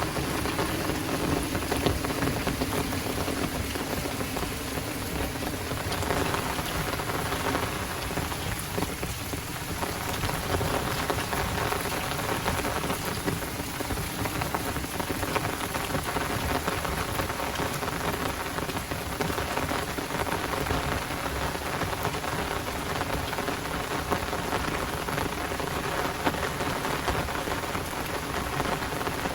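Heavy downpour falling steadily: a dense, even patter of raindrops hitting the ground and nearby surfaces.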